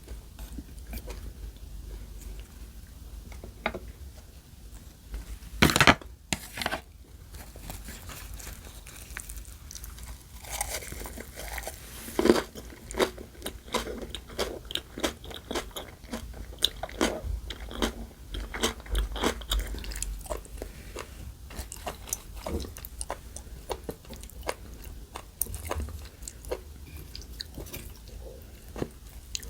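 Close-miked chewing and biting, with irregular crunches: eating food in a mukbang. It includes sharper, louder bites about six and twelve seconds in, and a dense run of crunching in the middle.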